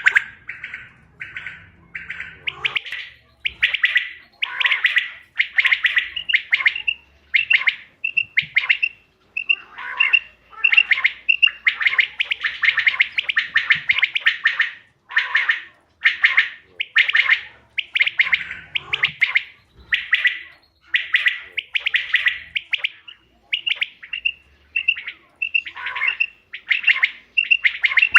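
Quail calling over and over: short buzzy trilled calls, about one or two a second, with runs of quick clear chirping notes in between.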